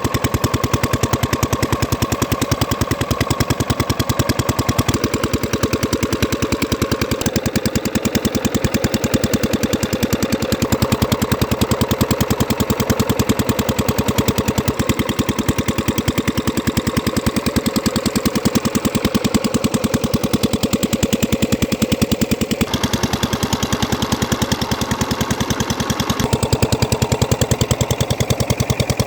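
Stationary diesel engine running steadily with a rapid, even firing beat as it drives a pump drawing water from a canal.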